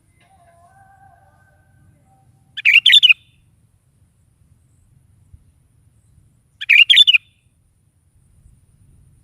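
Sooty-headed bulbul calling: two short, loud phrases of a few quick notes each, about four seconds apart.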